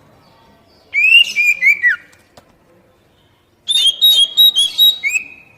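Oriental magpie-robin (kacer) song: two short phrases of clear whistled notes, the first about a second in and a slightly longer one in the second half.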